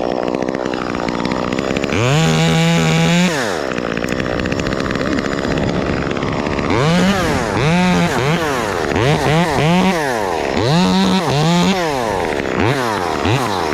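Two-stroke chainsaw idling, then revved up and held at full throttle for about a second, followed later by a quick series of short blips of the throttle.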